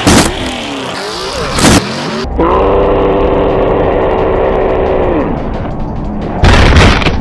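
Car sounds over background music, with a sharp hit at the start, another about a second and a half later, a steady drone for about three seconds, and a loud burst near the end.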